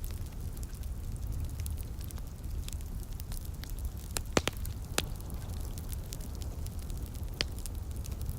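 Wood fire crackling in a fireplace: scattered sharp pops over a steady low rumble, with the loudest pops coming a little past halfway through.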